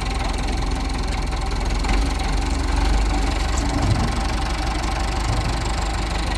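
Rice combine harvester's engine running steadily, a constant mechanical drone with low rumble.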